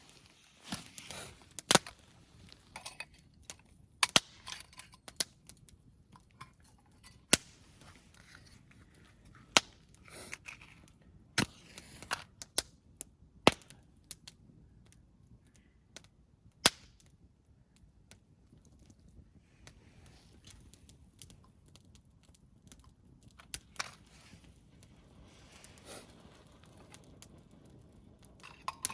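Wood fire crackling, with sharp irregular pops and snaps scattered through, several of them loud, over a faint steady background.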